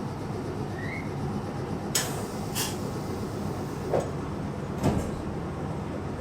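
Meitetsu local train running, heard from inside the car: a steady rumble with sharp clacks, two close together about two seconds in and two more around four to five seconds in.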